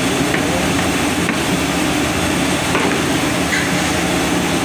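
Steady engine-like rumble with a low hum underneath, and a few faint light knocks.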